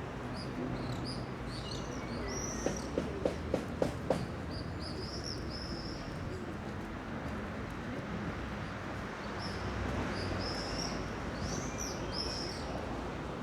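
Small birds chirping in short, repeated high calls, in two bursts, over steady low street background noise. A quick run of about six sharp clicks comes a few seconds in.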